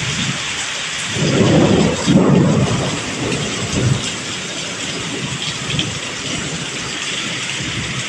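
Tropical rain falling steadily in a thunderstorm, with a roll of thunder rumbling from about a second in for roughly three seconds before dying back to the rain.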